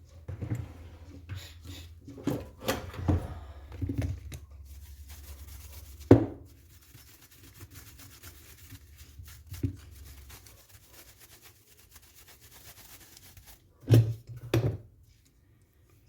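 Parts of an airsoft M14 being handled during disassembly: scattered knocks and clicks with rubbing and scraping between. There is a sharp knock about six seconds in and two louder knocks close together near the end.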